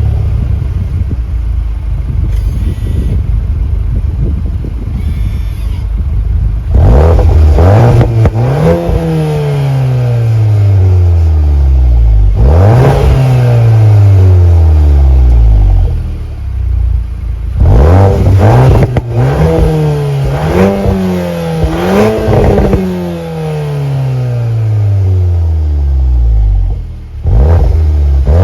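2021 VW Golf 8 R's turbocharged 2.0-litre four-cylinder through an Akrapovič exhaust in race mode. It runs low and rough for the first several seconds, then is revved about four times, each rev climbing quickly and falling away over a few seconds, with a few short blips in between.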